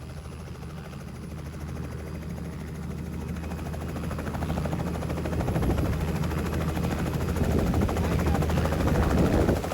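Tour helicopter running, its rotor beating with a fast, steady chop over the engine, growing louder through the second half.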